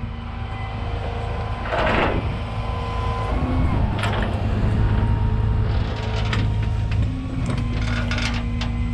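Tow truck engine running with a steady drone whose pitch steps up and down a couple of times, as when hydraulics are worked. Several short scraping and rattling noises sound over it, the loudest about 2 s in and a group near the end.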